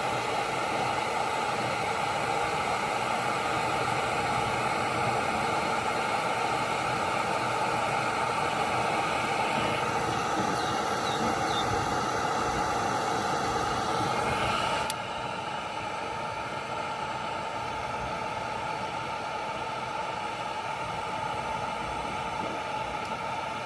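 Electric heat gun blowing steadily, a fan-driven rush with a faint whine, heating heat-shrink tubing on a wire terminal. Its level drops a step about fifteen seconds in.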